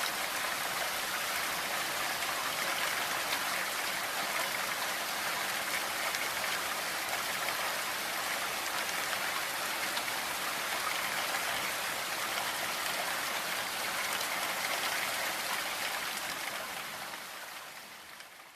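Steady rain, an even, dense hiss of falling drops, fading out over the last two seconds or so.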